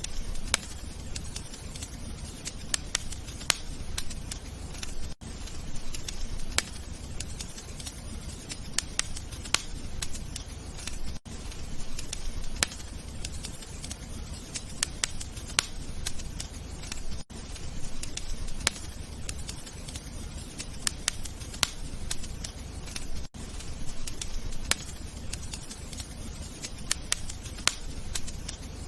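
Wood fire crackling in a fireplace: a steady low rush of flames with frequent irregular sharp pops and snaps. The sound briefly dips out about every six seconds.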